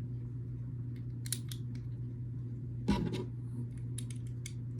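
Short, sharp plastic clicks and snaps of small building-block pieces being handled and pressed together, loudest about three seconds in, over a steady low hum.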